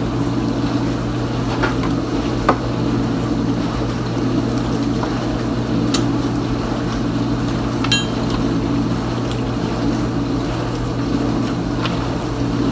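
Kenmore Ultra Wash 3 dishwasher running mid-cycle: a steady pump-motor hum under water spraying inside the tub, with a few sharp ticks, about three in all.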